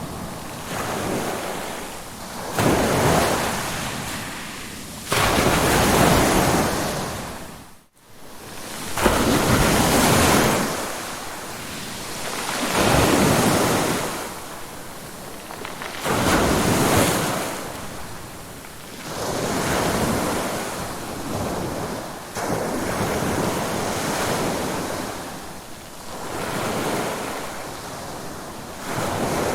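Ocean waves breaking and washing ashore in repeated swells, each rising and falling over a few seconds. About eight seconds in, the sound briefly cuts out almost completely, then resumes.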